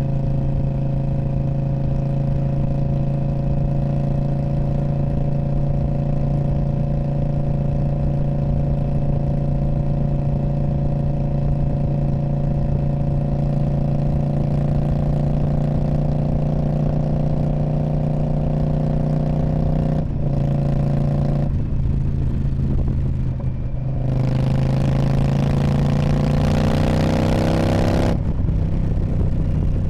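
2019 Indian Scout Bobber's V-twin running through a Freedom Performance Radical Radius exhaust. A steady exhaust note eases slowly lower for most of the time, then breaks off briefly twice, like gear changes, with the revs climbing after each break near the end.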